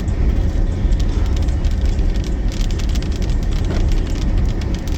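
Rainstorm: many small drop ticks over a loud, steady low rumble.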